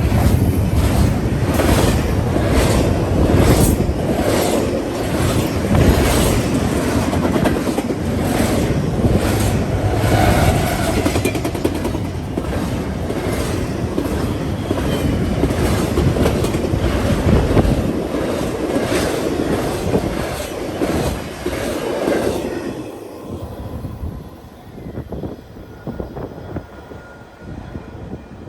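Train rolling past: a steady rumble of wheels on rails with repeated clacks over rail joints, which drops away suddenly about 22 seconds in as the train clears.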